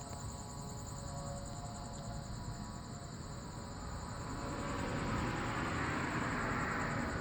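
Crickets chirping steadily in a high pulsing trill, while a distant vehicle's rushing noise grows louder through the second half.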